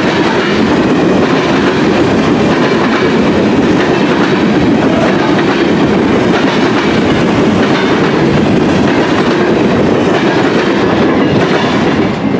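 Freight train of covered hopper cars rolling past at close range: the steady, loud rumble and rattle of the cars and their wheels on the rails. Near the end the last car clears and the sound begins to fall away.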